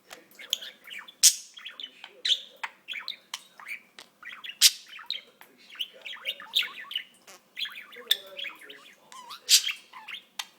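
Pet budgerigar chattering: a rapid, continuous run of warbles, chirps and clicks, with a few sharp, louder squawks.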